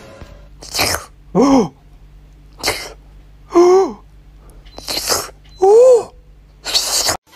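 A cat making three short meow-like calls, each rising then falling in pitch, alternating with four short breathy bursts.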